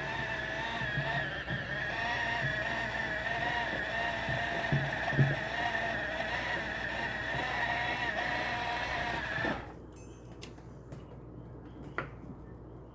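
Small portable washing machine's motor running with a steady, slightly wavering whine and a few low knocks. It cuts off suddenly about nine and a half seconds in, leaving faint room sound and a single click.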